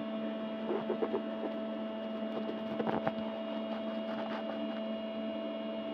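Steady electrical hum made of two held tones, one low and one higher, with a few faint soft knocks.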